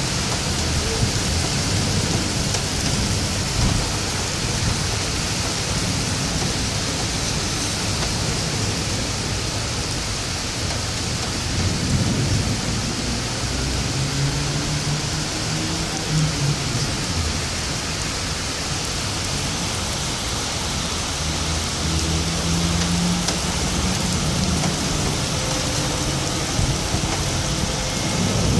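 Steady rain falling during a thunderstorm, with low rolling thunder swelling up several times, about twelve seconds in, again a few seconds later, then for a couple of seconds past the twenty-second mark and once more at the end.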